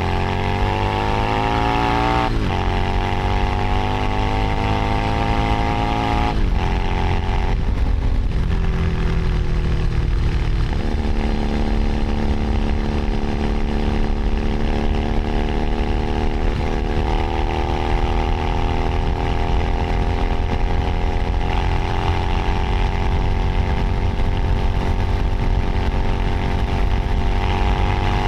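Keeway SCR 250V motorcycle's engine through a free-flowing aftermarket exhaust while riding. It accelerates with rising pitch, shifting up at about two and six seconds in and dropping back around eight seconds. It then settles into a steady cruise, with one more shift change a little past halfway and a gentle rise near the end. A constant low rush of wind and road noise runs underneath.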